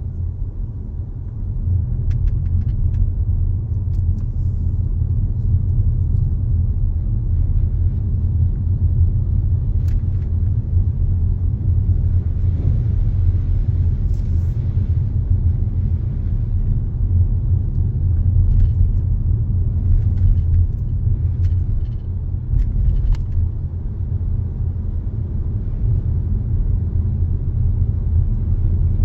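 Car driving along a road: a steady low rumble from the moving vehicle, with a few faint scattered ticks.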